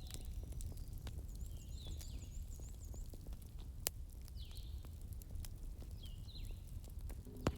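Fireplace crackling over a low steady rumble, with a few sharp pops, while short descending chirps repeat every second or so.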